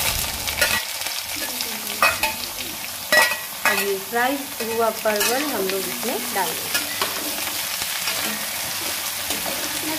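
Onion-garlic masala and fried parwal (pointed gourd) sizzling in oil in a metal pan, stirred and scraped with a metal spatula, with a few sharp clicks of the spatula against the pan. The masala is fully cooked, with the oil separating from it.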